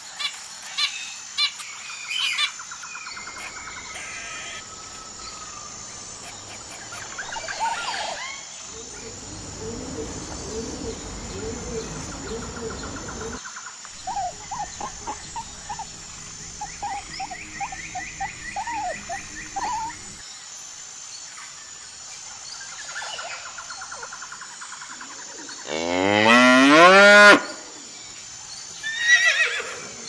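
Animal calls cut one after another: short sharp calls at first, a pig's quick run of short grunting calls in the middle, and a cow's long, loud moo rising in pitch near the end.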